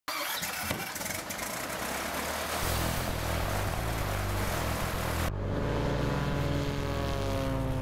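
Light aircraft's piston engine and propeller running, starting abruptly. About five seconds in, the sound cuts to a steadier, pitched engine note that slowly falls.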